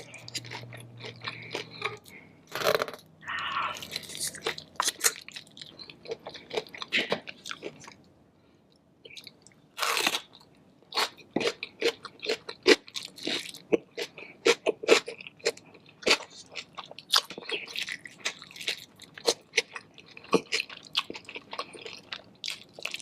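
A person biting and chewing crunchy food, with many sharp crunches in quick succession and a short lull about eight seconds in.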